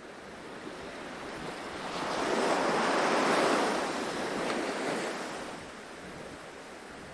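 Ocean surf: the wash of a wave swells to a peak about three seconds in, then eases off again.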